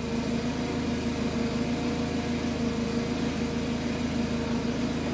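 Steady mechanical hum with a low drone and a few fixed tones, unchanging throughout.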